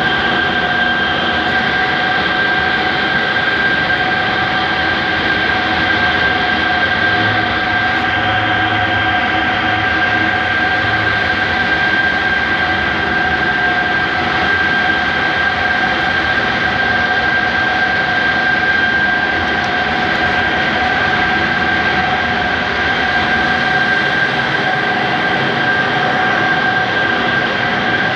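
Two-stage centrifugal compressor running steadily: constant machine noise with a high, unchanging whine.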